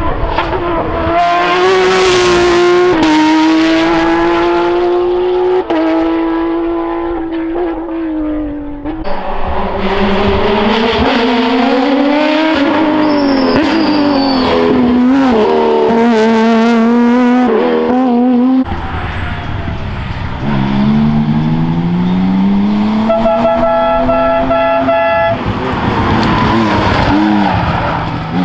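Porsche rally cars at full attack, engines revving hard and climbing and dropping through gear changes, with some tyre squeal; the sound changes abruptly twice as one car gives way to the next.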